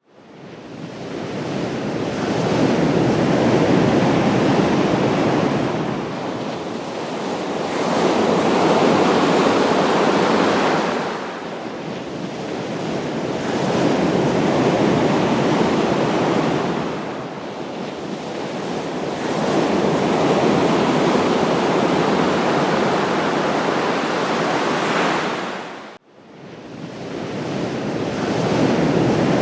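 Ocean surf breaking on a shore, a wash of noise that swells and ebbs in slow surges about every five to six seconds. Near the end it cuts out abruptly and then builds again.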